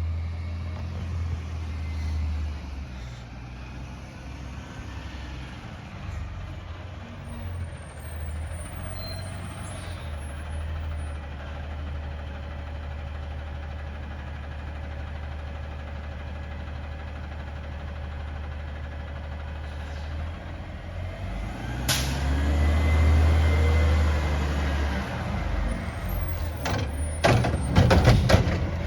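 Garbage truck's diesel engine running steadily at idle. About two-thirds of the way through, a sharp air-brake-like hiss is followed by the engine revving up. Several loud knocks come near the end.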